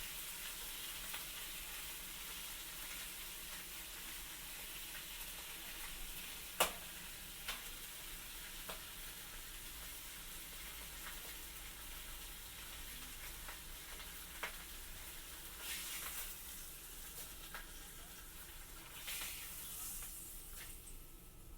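Food sizzling in a frying pan, a steady hiss. A sharp knock, the loudest sound, comes about six and a half seconds in, and a few lighter clicks and knocks follow, like utensils against the pan.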